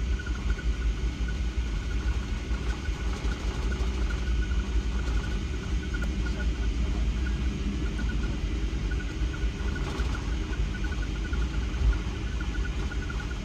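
Steady low rumble of a Boeing 757-300's engines and airflow heard inside the passenger cabin as the airliner taxis after landing.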